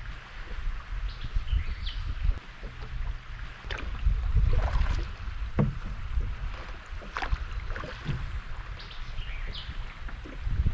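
Canoe being paddled on a river: the paddle dips and water splashes against the hull in irregular strokes, the loudest about four to five seconds in and again around seven seconds, over a low rumble of wind on the microphone.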